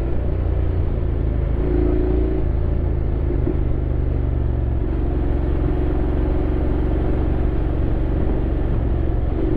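Honda X-ADV 750's parallel-twin engine running steadily under way, heard with road and wind noise from the rider's position; its note eases slightly a few seconds in.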